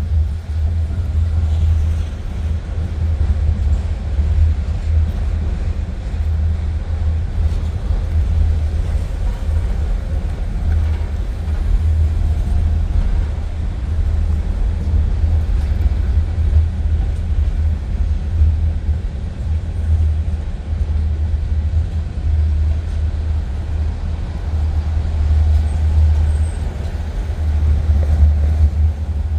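Union Pacific train rolling past with a steady low rumble.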